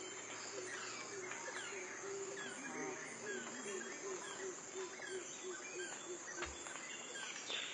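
Wild birds chirping in many short, quick, down-sliding notes over a steady high insect drone. A run of low repeated notes comes in from about three to six seconds in.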